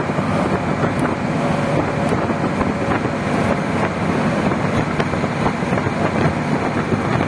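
Steady rumbling noise of a running vehicle, with wind buffeting the microphone.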